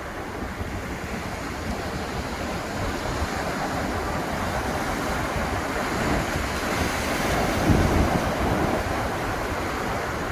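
Ocean surf: waves breaking and washing up the beach, one swelling louder about three quarters of the way through, with some wind on the microphone.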